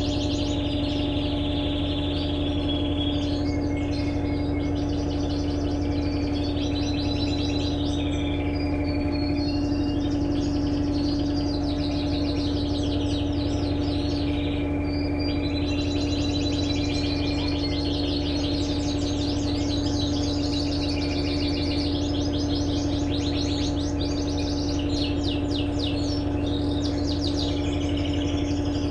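Birds chirping and trilling in repeated short phrases, over a steady low mechanical hum from an Electrolux LTE12 washing machine running through its cycle.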